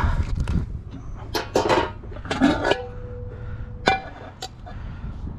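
Scrap metal and glass items clanking and clinking as they are handled and knocked together. One piece rings with a steady tone for about a second, and another is struck and rings briefly just before the four-second mark.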